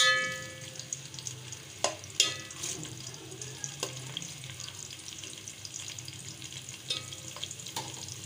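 Sliced onions sizzling in hot ghee in a metal pot, stirred with a metal slotted spoon that scrapes and clinks against the pot. A ringing clink right at the start, then a few scattered taps.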